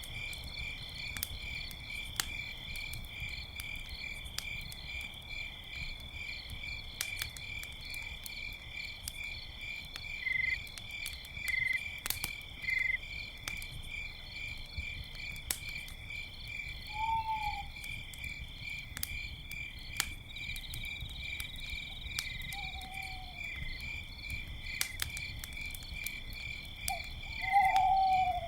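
Crickets chirping steadily over a campfire crackling with scattered sharp pops. An owl hoots three times in the second half, the last call the loudest, near the end.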